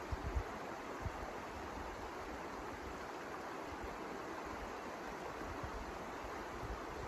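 Steady rushing wind noise, with a few short low thuds in the first second, one of them about a second in.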